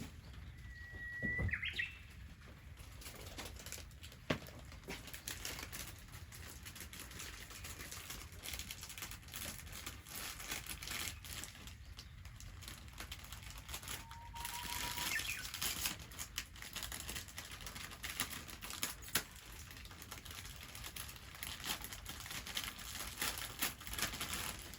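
Wood fire crackling and popping in a steady dense patter of small snaps. A bird whistles once about a second and a half in.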